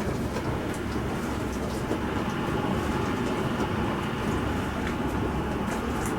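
Bosch Serie 4 SMS46MW05G dishwasher running mid-cycle: a steady rumble of the wash pump and water spraying and sloshing inside the tub, with faint ticks on top.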